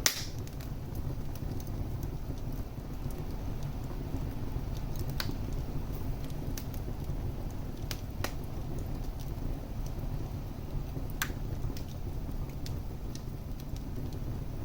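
Wood fire burning in a fireplace: a steady low rumble of the flames with sharp crackles and pops, a loud pop right at the start and scattered smaller ones after.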